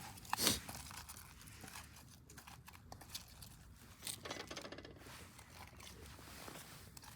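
Close handling noises: tearing, crinkling and crunching, with a sharper crunch about half a second in and a quick rattling run of crunches around four seconds in.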